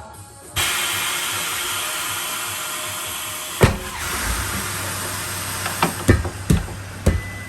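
A loud steady hiss starts suddenly, runs for about three seconds and then gives way to one heavy knock, followed by a quick run of sharp knocks.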